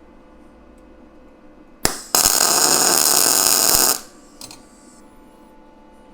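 Electric arc welder tacking a steel rib to a steel floor sheet: a brief arc strike just before two seconds in, then about two seconds of loud steady crackling hiss that stops abruptly.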